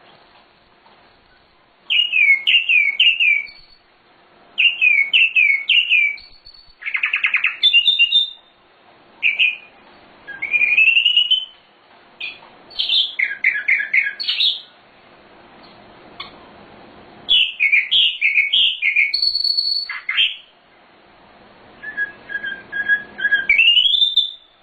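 Sikatan londo songbird singing in repeated phrases of quick, sliding whistled notes, each phrase a second or two long with short pauses between. The phrases vary: rapid rolling downslurs, one short buzzy rattle, and rising upswept notes near the end.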